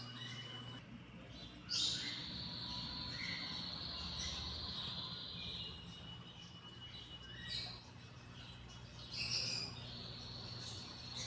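Birds chirping and calling, with louder calls about two seconds in and a few more later on, over a thin high steady tone and a low hum.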